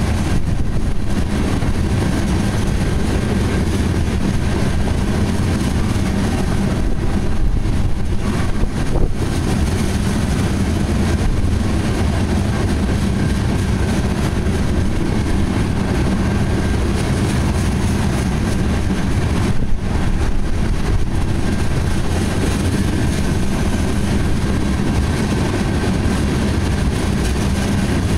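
Freight train of oil tank cars rolling past close by: a steady rumble and clatter of steel wheels on the rails.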